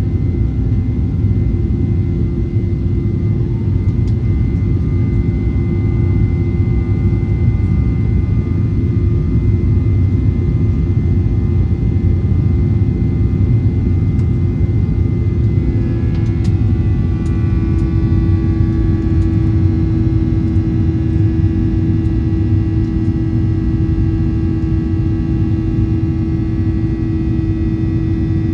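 Boeing 737-900ER's jet engines heard from inside the passenger cabin: a steady, loud rumble with a hum of several steady tones, which shift in pitch about two-thirds of the way through.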